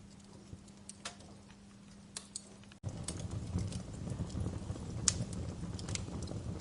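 Wood fire in a fireplace crackling, with sharp pops and snaps. About three seconds in, it cuts abruptly to a louder stretch with a low rumble of flames under the crackles.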